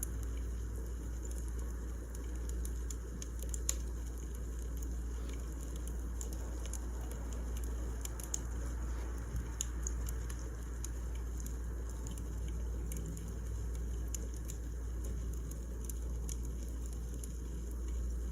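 Wood fire crackling: irregular small pops over a steady low rumble, with a few louder snaps scattered through.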